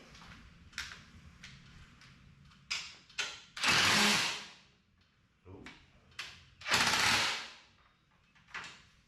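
Cordless drill driving a bolt into the door valance in two short runs, with clicks and knocks from the tool and parts between runs.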